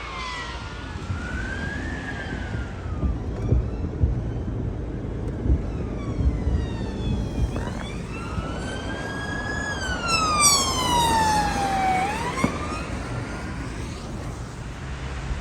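Emergency vehicle siren in wail mode, its pitch sweeping slowly up and down, loudest in the second half. It sounds over a low traffic rumble, with a few short sharp knocks underneath.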